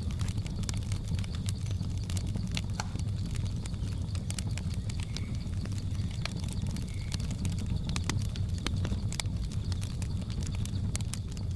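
Wood fire crackling: a steady low rumble with many sharp pops and snaps scattered throughout. Two faint short chirps come from the jungle background near the middle.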